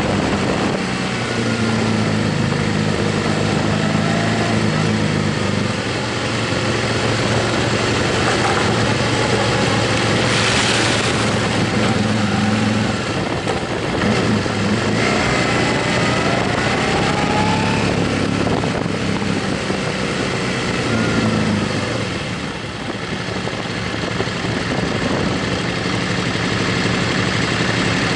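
Motorcycle engine running steadily at cruising revs while riding, over an even rush of noise; the engine pitch shifts a little now and then.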